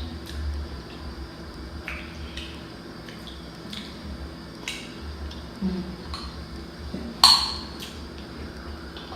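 Wet, sauce-covered seafood being eaten by hand: scattered small clicks and clinks of shells and dishes with wet squishing, and one louder clink about seven seconds in.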